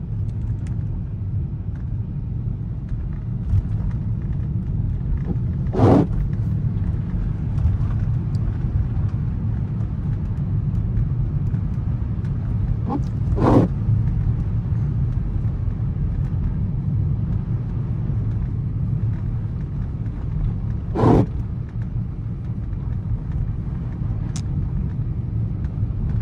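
Steady low road and tyre rumble inside the cabin of a 2024 Volkswagen Atlas driving on a snowy road. Three brief sharp knocks come at roughly seven-second intervals.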